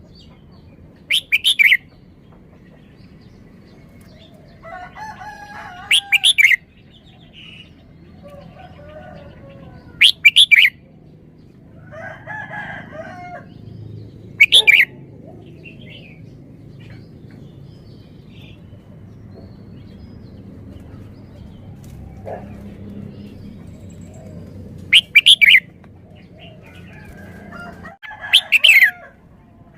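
Red-whiskered bulbul singing: six loud, short whistled phrases, most of them about four seconds apart, with a longer pause in the middle. Softer bird calls come between the phrases.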